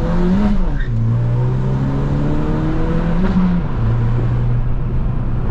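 Chevrolet Cruze 1.4 turbo engine pulling hard through the gears, heard from inside the cabin through an aftermarket exhaust with the rear muffler removed and only one intermediate muffler left. The engine note climbs and then drops twice, at gear changes, and holds a steady drone in between.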